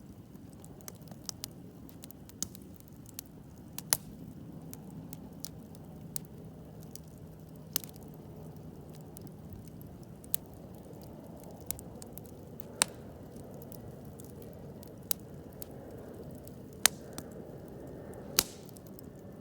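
Wood campfire burning: a steady low rush of flame with sharp crackling pops at irregular intervals, about one a second, some much louder than the rest.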